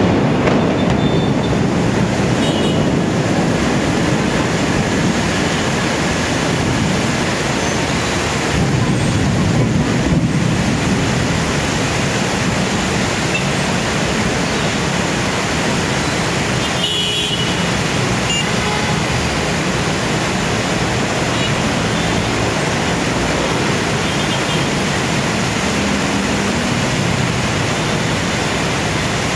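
Heavy rain falling steadily, mixed with the sound of traffic on a wet highway.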